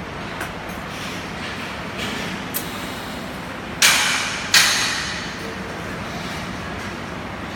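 Two loud, sharp impacts about three-quarters of a second apart, each fading away over a moment, over a steady background rumble. A couple of faint taps come before them.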